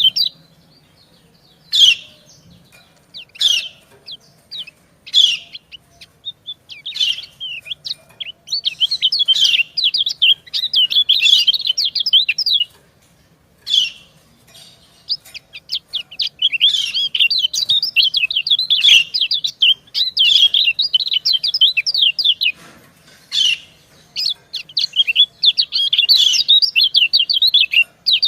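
Yellow white-eyes (kecial kuning) calling: a few single sharp chirps at first, then long runs of fast, high twittering, the female's 'ciak-ciak' call that answers and stirs up a male.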